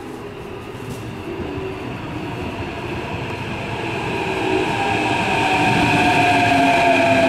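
Keikyu electric train approaching, growing steadily louder, with a whine from its running gear that slides gradually lower in pitch in the second half.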